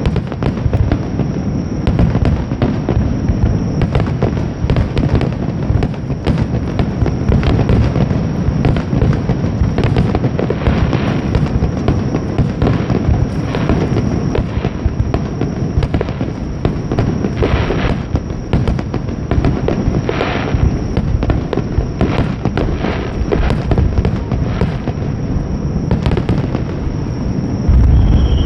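Fireworks display: a dense, unbroken run of shell bursts, bangs and crackling, with a heavier boom and a short falling whistle near the end.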